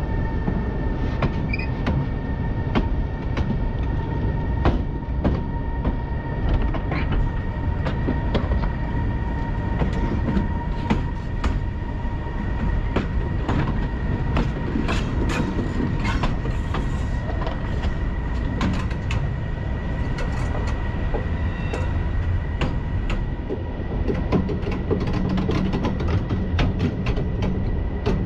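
Siemens Vectron electric locomotive hauling a freight train, its wheels rumbling on the track and clicking irregularly over rail joints and points, with a steady high-pitched hum.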